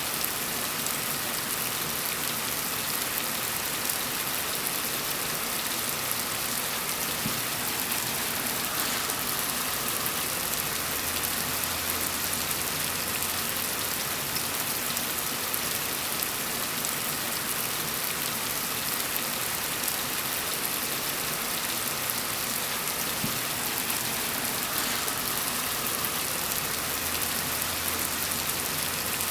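Steady rain falling on a surface, a dense, even hiss of drops with no breaks.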